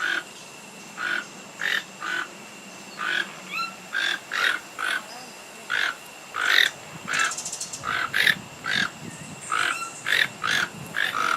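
A bird giving short calls again and again, about twenty at uneven spacing.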